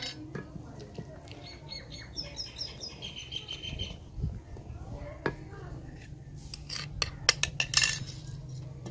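A bird calls with a quick run of high chirps about two seconds in, then a briefly held whistle, over a low steady rumble. Near the end come a few sharp clicks and knocks of cooking utensils against the aluminium pot, the loudest sounds here, as cracked wheat is stirred into boiling milk.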